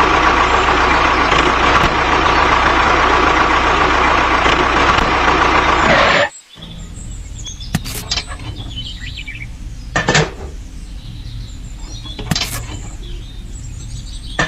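Mini diesel engine running loud and steady for about six seconds, then the sound drops abruptly to a quieter low hum broken by a few sharp knocks.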